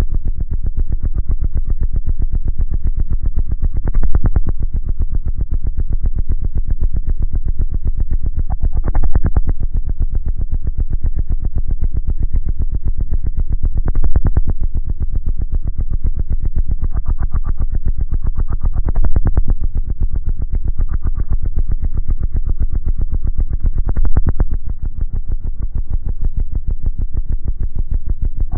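Bass-heavy synthesizer music played loud through a pair of 18-inch Ultra Audio Lord of Bass subwoofers. It has a fast steady pulse, a louder accent about every five seconds, and almost no treble.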